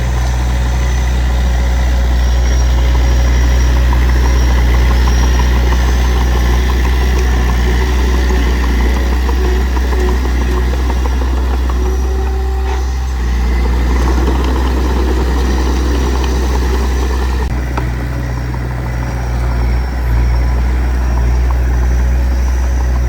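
D20P bulldozer's diesel engine running steadily with a deep, continuous hum. About halfway through, the engine note changes for a few seconds, with more mid-range noise.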